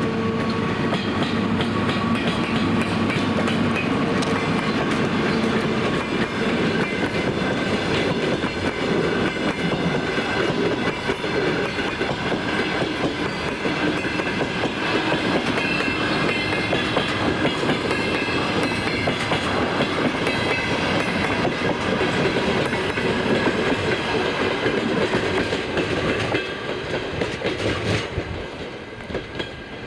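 Departing passenger train rolling past, its coach wheels clicking over the rail joints. A steady hum fades over the first few seconds, and the noise drops off about four seconds before the end.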